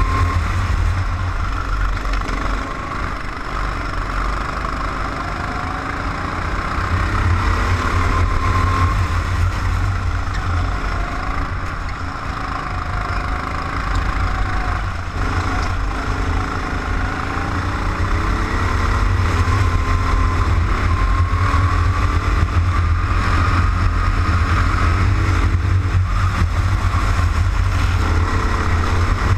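Go-kart engine heard from an onboard camera while lapping, its pitch rising and falling as it accelerates and eases off, over a strong low rumble.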